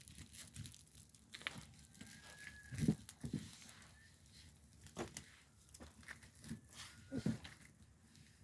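Rummaging through things: scattered knocks and clicks with crinkling and rustling as items are handled, with a few louder thumps.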